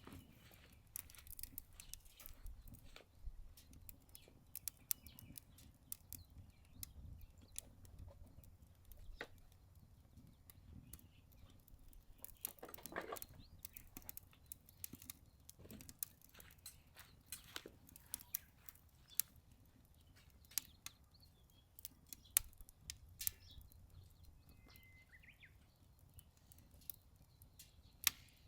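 Wood fire crackling in a Solo Stove Ranger fire pit, with frequent irregular sharp pops and snaps, over a low rumble of wind on the microphone.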